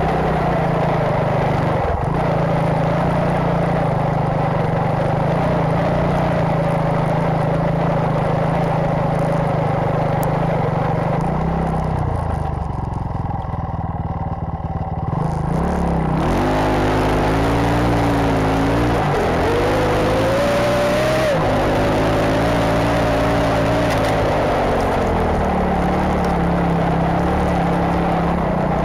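KAYO enduro motorcycle engine, converted to a tracked snowbike, running hard at steady high revs. Near the middle the revs fall away for a few seconds, then climb back, rising and falling in pitch before settling high again.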